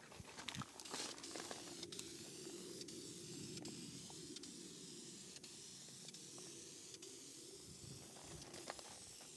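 Faint, steady hiss of Caterpillar-yellow spray paint being sprayed in a continuous pass.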